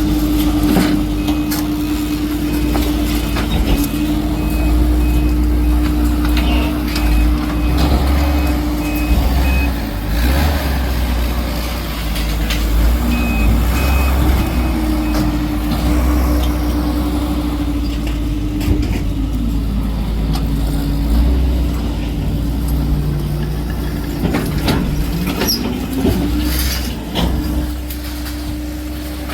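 Heavy diesel work vehicle running, its engine pitch rising and falling, with a reversing alarm beeping through the first several seconds and again briefly a little later. Occasional clanks and knocks of debris work.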